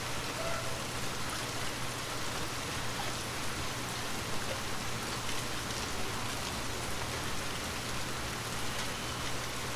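Steady rain falling, an even hiss with scattered drops ticking, over a constant low hum.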